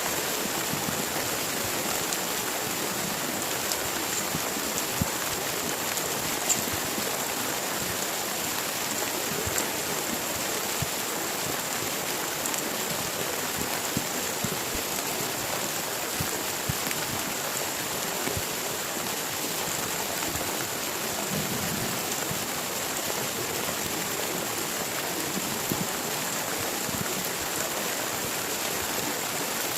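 Heavy rain falling steadily, with many sharp taps of single drops scattered through it and a few louder ones.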